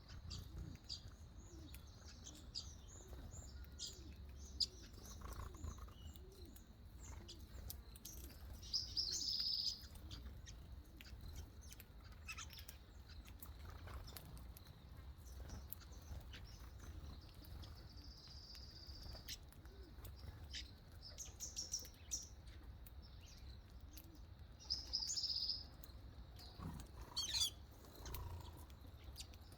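Birds chirping and calling: scattered short high calls, with louder bursts of chirping several times, over a steady low rumble.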